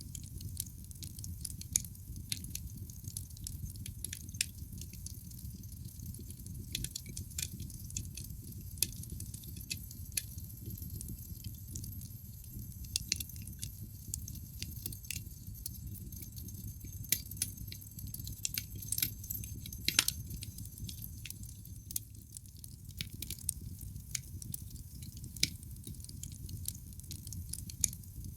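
Wood fire in a fireplace crackling: frequent sharp pops and snaps over a low steady rumble of the burning logs, with one louder pop about twenty seconds in.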